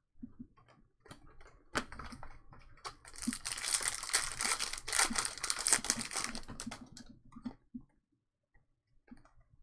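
A foil trading-card pack wrapper being torn open and crinkled, with scattered clicks and taps of cards being handled before and after. The crinkling is densest in the middle, for about three and a half seconds.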